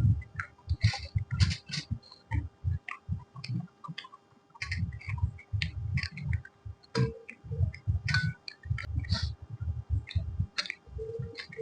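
Close-miked chewing of puri: irregular soft chomps with wet mouth clicks and lip smacks.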